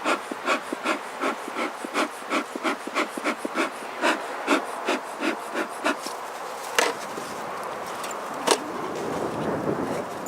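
Bee smoker bellows pumped in quick puffs, about three a second, with honey bees buzzing around the open hive. The puffing stops about six seconds in, followed by two sharp clicks.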